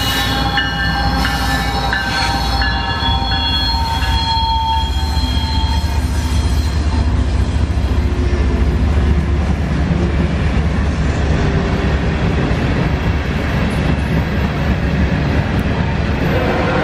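A CSX freight train passing close by: the lead diesel locomotives go by with several high-pitched steady tones over the rumble for the first five seconds or so, then a string of hopper cars rolls past with a heavy, steady low rumble.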